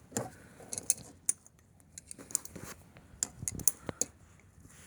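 Handling noises: a scattered series of small sharp metallic clicks and light rustling as pliers and a rag are fitted onto the washer's plastic drain pump filter cap.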